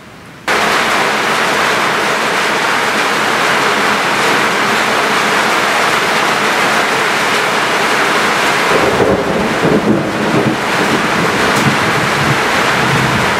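Heavy rain pouring down in a steady hiss, starting abruptly about half a second in. A low rumble of thunder rolls under the rain from about nine to eleven seconds in.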